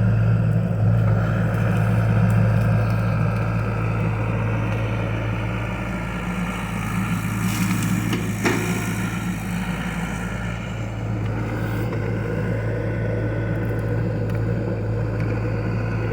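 John Deere excavator's diesel engine running steadily, with a brief hiss and a sharp knock about eight seconds in.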